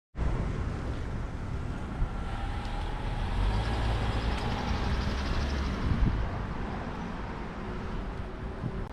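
Street traffic noise with a heavy vehicle's low rumble, loudest from about three to six seconds in, with a single sharp knock near the end of that swell.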